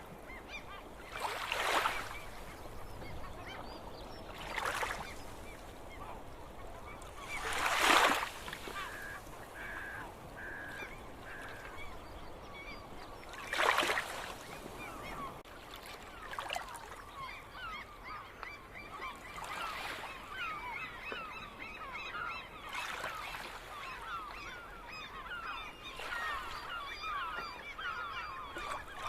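Gulls calling: loud single calls every few seconds over a steady chatter of many fainter calls from a flock, the chatter thickening in the second half.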